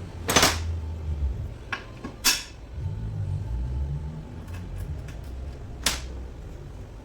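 Metal gearbox parts and tools being handled and set down, giving four sharp clanks, the loudest about a second in, over low shuffling and rumbling noise.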